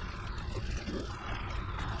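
Mountain bike ride on a gravel forest road: a steady low rumble of wind on the microphone under the hiss and crunch of tyres rolling over gravel.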